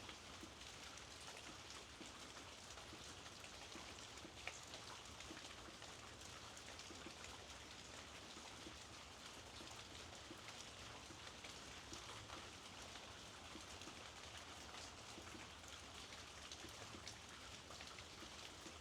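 Soft, steady rain falling, with scattered drop ticks and one sharper tick about four and a half seconds in.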